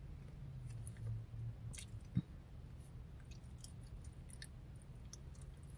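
A person chewing a mouthful of baked chicken drumstick with the mouth closed, soft wet mouth clicks scattered throughout, over a faint steady low hum.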